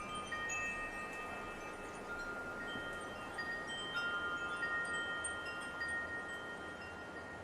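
Wind chimes ringing, several tones struck again and again at irregular moments and each ringing on for seconds, over a soft hiss of light wind.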